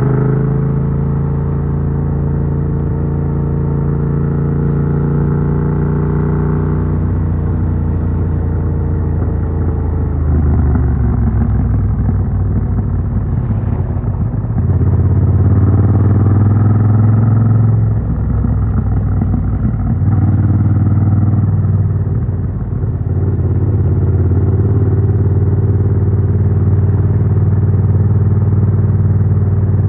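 Yamaha MT-07's 689 cc CP2 parallel-twin engine running through an Arrow Works full exhaust with its dB killer fitted, heard from a phone in the rider's backpack while riding. The revs rise and drop several times through the first two thirds, with gear changes, then hold at an even cruising pitch near the end.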